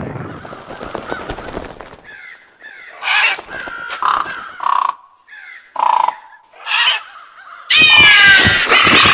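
Birds calling: a few short, separate harsh caws, then from about eight seconds in a loud flock calling over one another.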